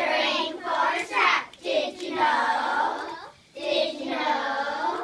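A group of children singing together in unison, in short phrases with brief breaks between them; the singing stops abruptly at the end.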